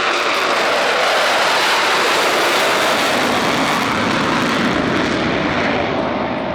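Jet engines of Blue Angels F/A-18 Super Hornets passing at an airshow: a loud, steady rush of jet noise that starts to fade about five seconds in.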